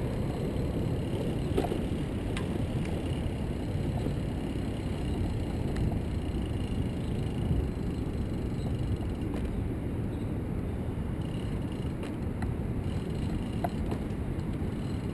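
Steady low rumble of wind on the microphone and road noise while riding a recumbent trike, with a few light clicks and rattles scattered through it.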